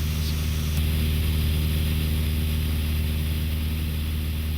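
Light aircraft's propeller engine running at a steady drone.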